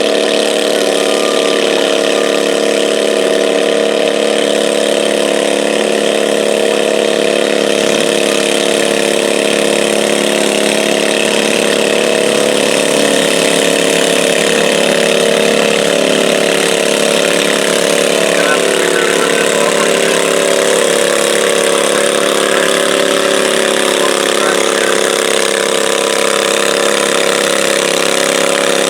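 Garden pull tractor's engine running steadily at idle, its pitch wavering slightly around the middle.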